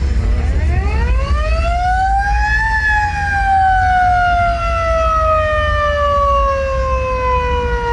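A mechanical siren winds up, its pitch climbing for about two and a half seconds, then winds down slowly and steadily as it coasts. A constant low rumble runs underneath.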